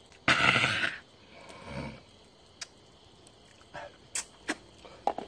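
A short, harsh throat sound from a man, like a cough or throat-clearing, lasting under a second. After it come a few light scattered clicks and taps.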